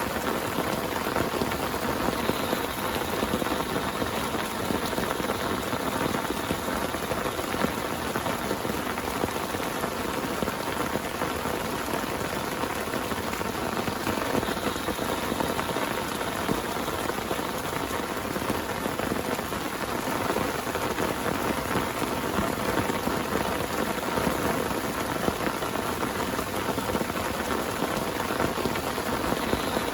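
Heavy rain falling steadily: a dense, even hiss of countless drops, with no thunder or other events standing out.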